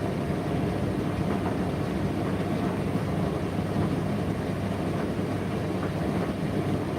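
Indesit IDC8T3 condenser tumble dryer running mid-cycle: a steady low rumble of the turning drum with the motor and fan humming under it.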